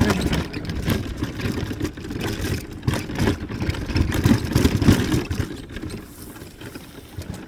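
A small vehicle rolling over bumpy ground: steady rumbling and rattling with many knocks and jolts, easing off near the end.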